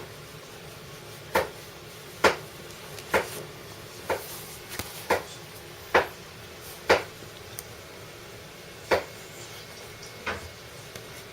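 A Kai Ken dog sneezing over and over: about ten short, sharp sneezes roughly a second apart, with a longer pause before the last two. The owner puts the irritation down to onion.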